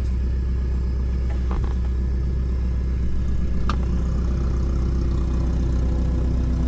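A steady low rumble with a constant hum, and a single sharp click a little past halfway.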